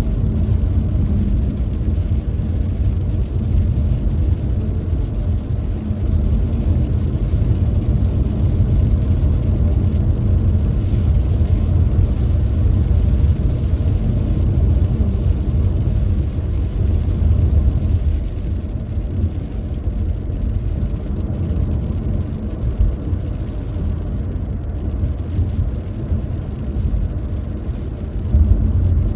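Car on the move: a steady, low road-and-engine rumble.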